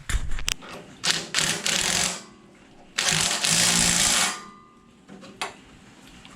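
Two loud bursts of rattling, hissing mechanical noise, each a little over a second long, with sharp clicks before and after.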